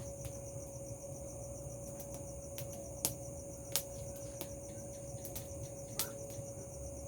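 Crickets chirring in a steady high-pitched chorus, with a few sharp pops scattered through it, about three seconds, four seconds and six seconds in.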